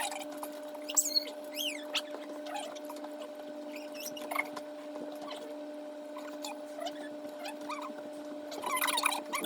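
A steady low electrical hum runs throughout, with scattered small kitchen clicks and handling sounds. Short high squeaky sounds, like a toddler's squeals, come about one to two seconds in and again briefly near the end.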